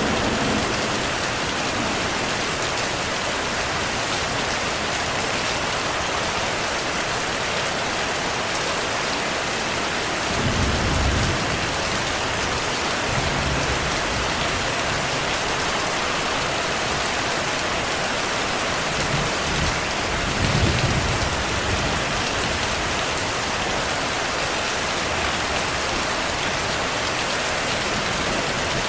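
Steady heavy rain, with low rolling thunder rumbling briefly about ten seconds in and again a couple of times around twenty seconds in.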